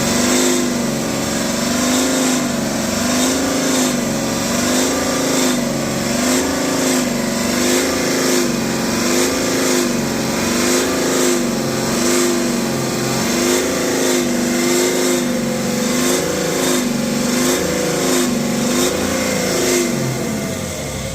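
BMW X5 40d's N57 straight-six diesel engine being revved up and down over and over, about once a second, its pitch rising and falling each time. The revs are being held around the speed near 3000 rpm where the owner hears a loud resonating, vibration-like noise whose source he has not found.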